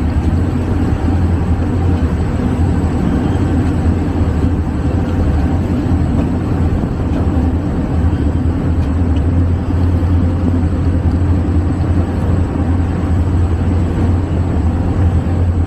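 Passenger train running along the line, heard from on board: a steady, loud low rumble with a noisy hiss above it and no change in pace.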